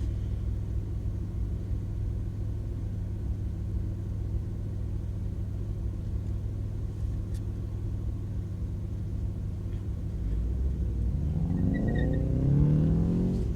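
Car engine idling with a steady low hum; near the end a louder engine sound rises and falls in pitch.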